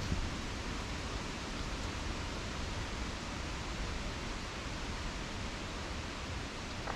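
Steady wind blowing through the trees, heard as an even rushing noise with a low rumble of wind on the microphone.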